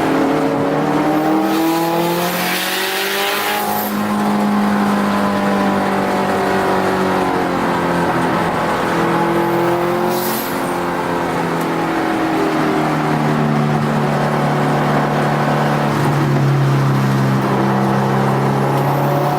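Turbocharged Subaru WRX STI flat-four engine heard from inside the car under hard track driving, its pitch climbing and dropping repeatedly as it accelerates, shifts and lifts for corners. A short burst of hiss comes about three seconds in, and a brief one again near the middle.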